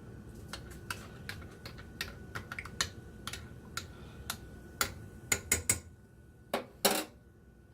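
A run of irregular light clicks and taps, typing-like. A cluster of louder clicks comes about five seconds in, and two louder knocks follow near seven seconds.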